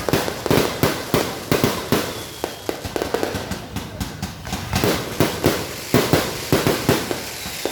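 Fireworks bursting in rapid, irregular succession, many sharp bangs a second overlapping one another.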